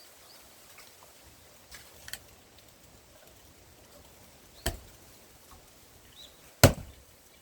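Large forged axe chopping into knotty pine rounds: two sharp impacts about two seconds apart, the second the loudest, after a couple of lighter knocks earlier.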